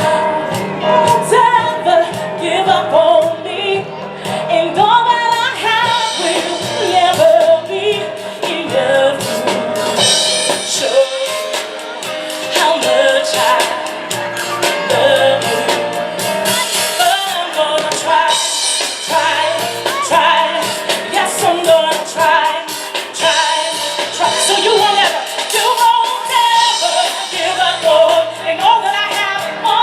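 Live gospel music: women's voices singing a song over piano and a drum kit, with cymbals and drums keeping a steady beat.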